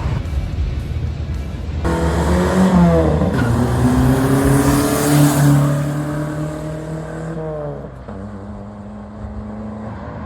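Deep bass thumping from a car's subwoofers, then a loud car engine that pulls in about two seconds in, is loudest around five seconds and drops in pitch as it goes by.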